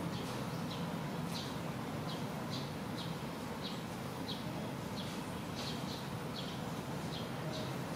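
Small birds chirping, short high chirps repeating about twice a second, over a steady low background hum.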